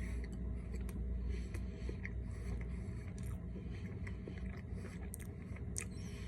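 Quiet chewing of a cream-filled doughnut, with faint scattered clicks and mouth sounds over a steady low background hum.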